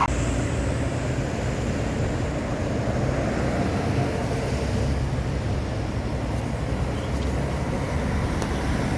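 Mid-size generator's engine running steadily at constant speed, with a low, even rumble.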